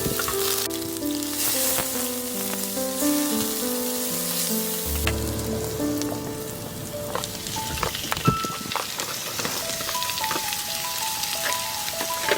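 Food sizzling and crackling in a hot pan, with scattered sharp pops, under background music with a slow melody of held notes.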